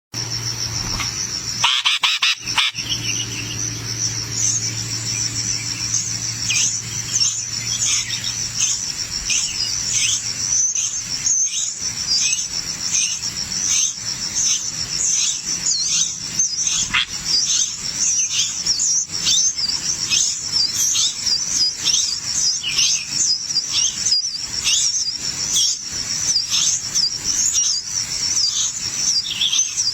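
Nestlings begging with a stream of short, high, downward cheeps, about two a second, over a steady high insect trill. A low hum fades out about ten seconds in.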